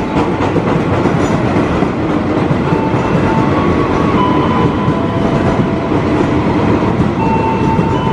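KRL electric commuter train running: a steady loud rumble with thin whining tones that come and go and shift in pitch every second or so.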